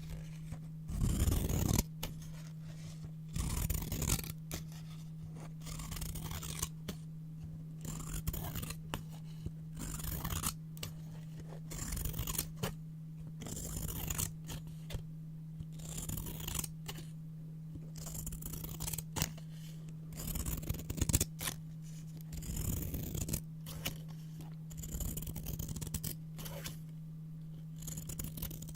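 Scissors cutting brown paper: repeated snips and slides through the sheet, one stroke every second or two. A steady low hum runs underneath.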